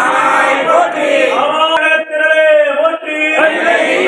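Male voice chanting a Tamil Shaiva devotional hymn of praise, holding long, gliding notes with short breaks for breath.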